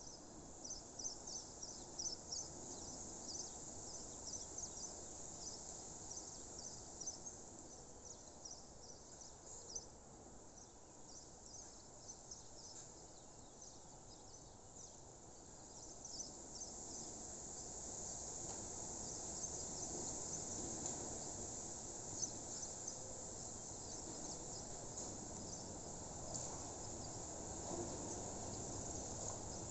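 Insects chirping in quick, high strokes, merging about halfway through into a steady high trill, over a faint low background hiss.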